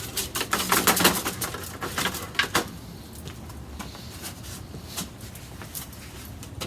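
A quick run of clicks and knocks from grilling tools and grill parts being handled, busiest in the first two or three seconds, then a few scattered taps.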